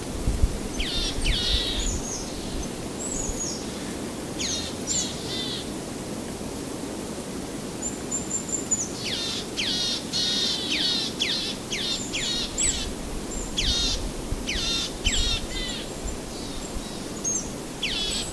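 Wild birds calling outdoors: runs of quick, high calls that slide sharply down in pitch. They come in scattered clusters and are densest in the middle. Under them is a steady background hiss of outdoor ambience.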